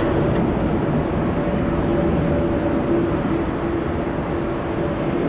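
Steady running noise of a vehicle, with a steady hum.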